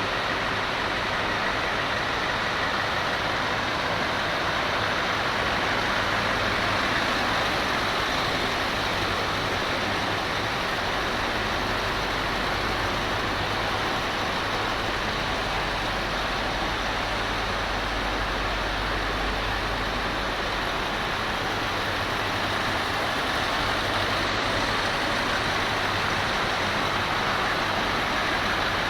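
Heavy truck's diesel engine idling steadily under a constant, even hiss.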